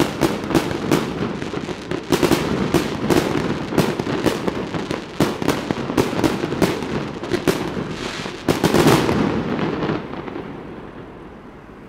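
Fireworks going off in quick succession: many sharp bangs with crackling between them, thickest in a cluster about three quarters of the way in. The bangs then stop and the sound fades to a low steady hiss near the end.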